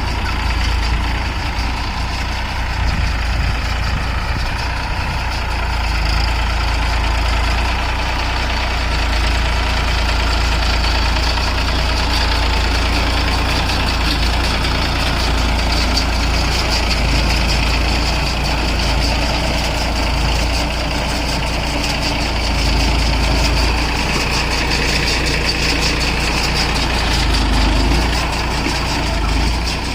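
New Holland 3230 NX tractor's three-cylinder diesel engine running steadily under load while it drives a round straw baler, a constant loud drone with no change in pace.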